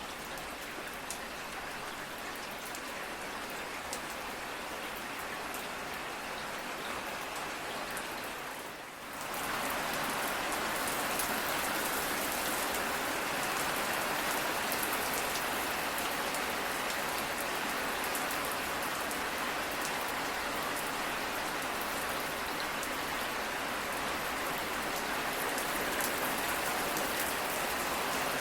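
Steady rain falling, with scattered sharper drops. About nine seconds in it dips briefly and then comes back louder and fuller.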